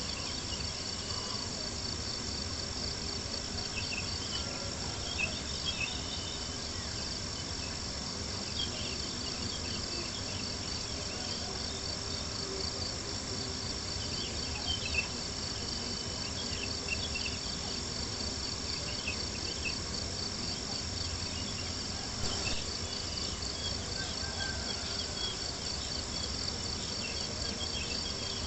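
A steady chorus of crickets trilling, with scattered small crackles and a few louder pops from a campfire.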